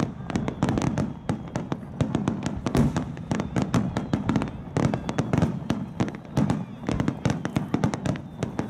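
Aerial firework shells launching and bursting in a dense, unbroken barrage of bangs, many a second, as in the finale of a fireworks display.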